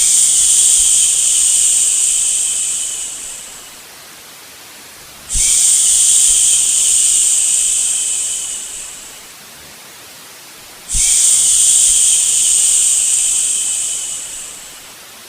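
A drawn-out "shhh" shushing sound, made three times about five and a half seconds apart. Each is held for about three seconds, then fades away. A fainter steady hiss of white noise runs underneath.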